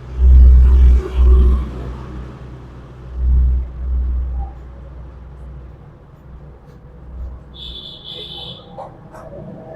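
Handling of car AC compressor parts during reassembly: a few dull, low thumps, then quieter handling noise, with a brief high metallic ring near the end.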